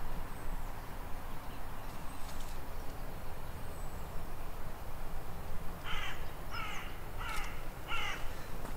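A bird calling four times in quick succession, short calls about two-thirds of a second apart, over a low steady rumble.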